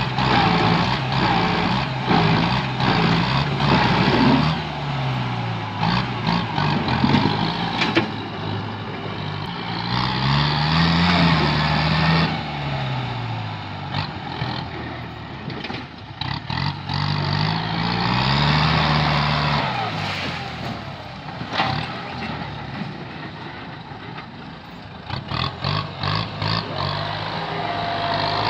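Kubota M8540 tractor's diesel engine working under load, its pitch rising and falling as it is revved up and eased off several times, with scattered short cracks and knocks over it.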